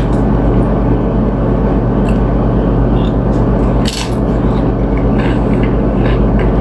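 Close-up chewing of tortilla chips and ceviche, with a sharp crunch about four seconds in and smaller crunches and mouth noises, over a steady low hum.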